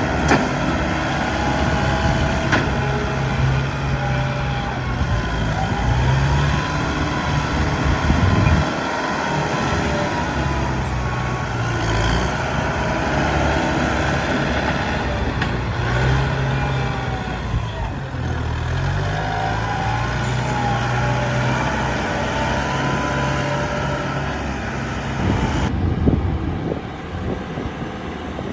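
Heavy diesel excavator working, its engine note rising and falling in repeated cycles under load, with a whine sweeping up and down as the hydraulics move the arm and bucket.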